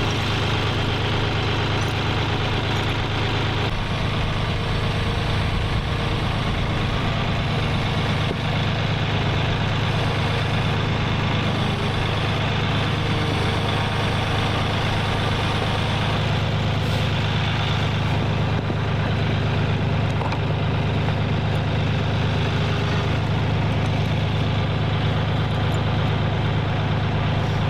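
Tractor engine running steadily at a constant, low, even speed.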